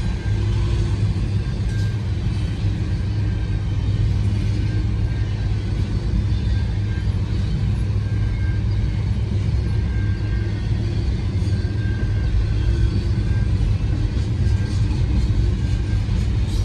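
Intermodal freight cars rolling slowly past on the rail, a steady rumble of steel wheels on track.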